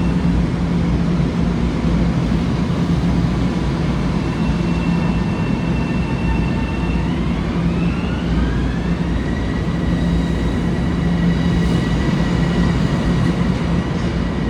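Electric passenger train running with a steady rumble and low hum. About halfway through, its traction motor whine rises in pitch and then holds steady as the train picks up speed.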